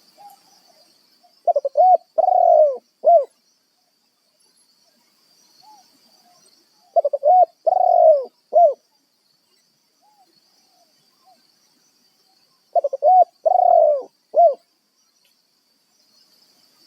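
Spotted dove cooing, the tekukur decoy's call used to lure wild doves: three loud, matching phrases about five and a half seconds apart, each a quick run of short coos, a longer drawn-out coo and one last short note.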